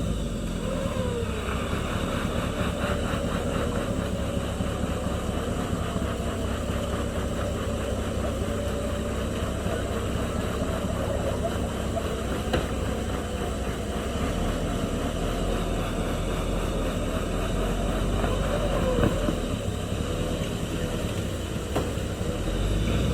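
Old tow truck's engine running steadily, with a few faint knocks, while the stuck truck is pulled backwards off the rut it is high-centered on.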